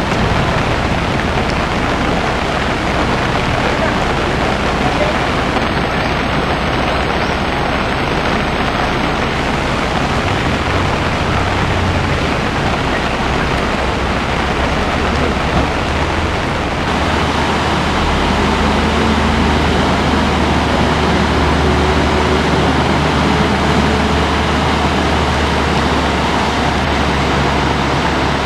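Loud, steady rush of a swollen, flooding stream. About two-thirds of the way in, a low steady hum joins it.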